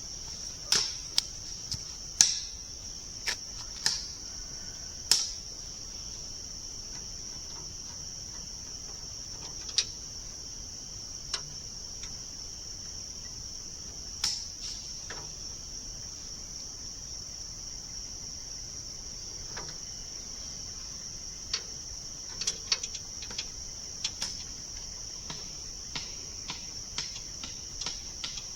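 Steady high-pitched chirring of crickets, with scattered sharp metallic clicks and clinks of hand tools tightening bolts, several in the first five seconds and a cluster near the end.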